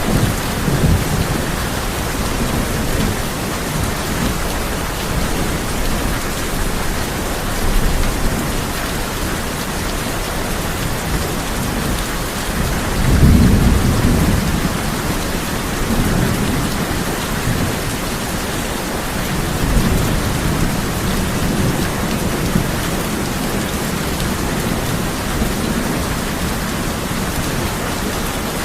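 Steady heavy rain drumming on a tin roof, with low rolls of thunder rumbling now and then, the strongest about halfway through.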